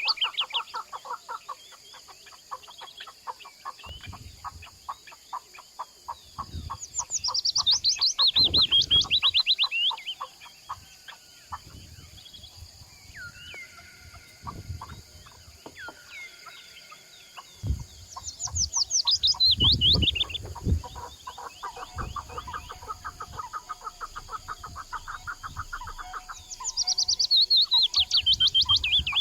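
Partridges and other wild birds calling: a steady run of rapid clucking notes, broken about every ten seconds by a loud burst of fast, high notes that fall in pitch. Low thumps come and go underneath.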